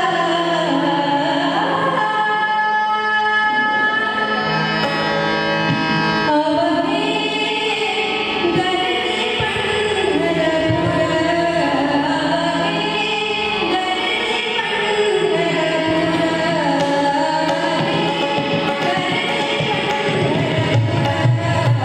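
A woman singing an Indian melody with long, bending, ornamented notes over instrumental accompaniment with a steady low drone.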